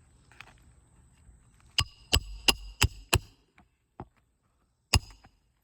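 Hand hammer driving roofing nails into an asphalt shingle: five quick, ringing strikes at about three a second, a couple of light taps, then one more sharp strike near the end.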